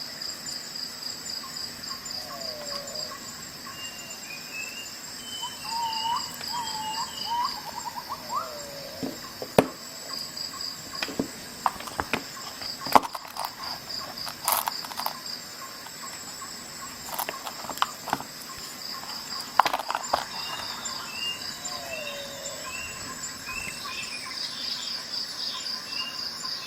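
Crickets chirping in a steady, fast pulsing trill, with short bird chirps near the start and the end. A run of sharp clicks sounds through the middle and stands out loudest.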